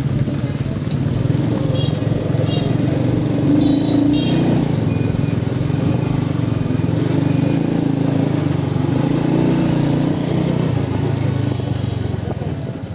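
Motorcycle engine running steadily, with a low hum that eases off and dips near the end.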